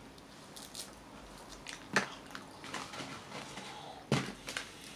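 Quiet chewing of hard McDonald's chicken nuggets, with two sharper crunches or clicks about two and four seconds in.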